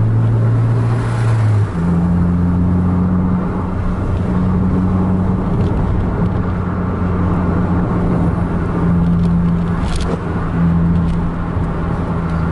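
Car engine and road noise heard from inside the cabin, a steady hum whose pitch drops about two seconds in and then holds. A single sharp knock comes near the end.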